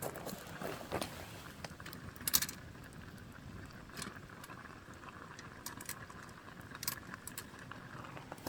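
Campfire burning, with a steady low hiss and irregular sharp crackles and pops of burning wood, a small cluster of them a little over two seconds in.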